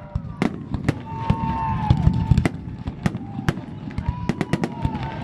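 Fireworks display: aerial shells bursting in quick, irregular succession, sharp bangs and crackles over a continuous low rumble.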